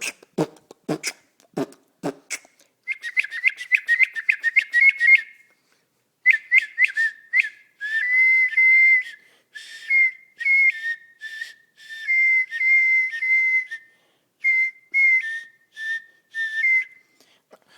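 Mouth beatboxing with sharp clicks for about two seconds, then human whistling in a long run of short, rapid notes near one high pitch, many of them starting with a quick upward flick, broken by a brief pause about six seconds in.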